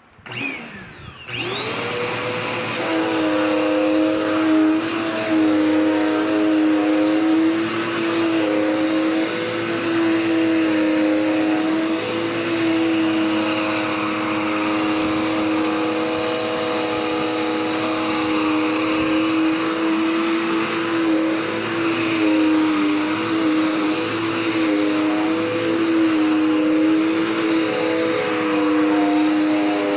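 Dirt Devil Power Max vacuum cleaner switched on about a second in, its motor spinning up to a steady hum with a high whine. It then runs continuously while vacuuming, its pitch dipping slightly now and then.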